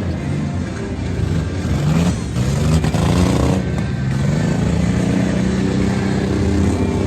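Monster truck engine running and revving, its pitch rising sharply about two seconds in and again a little later, then holding a steadier note.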